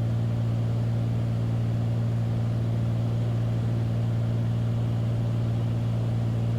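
Beechcraft Bonanza's single piston engine and propeller droning steadily as heard in the cockpit: a constant low hum that holds one pitch throughout.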